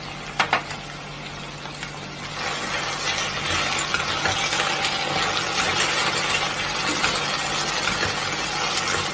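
Taro root sticks sizzling as they fry in a nonstick pan, stirred with a slotted spatula; the sizzle grows louder about two seconds in. A couple of light clicks near the start.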